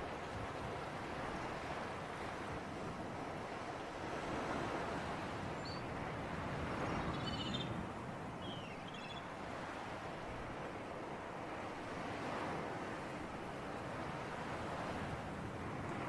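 Sea surf and wind: a steady wash of waves with slow rises and falls. A few short, high bird chirps come in around the middle.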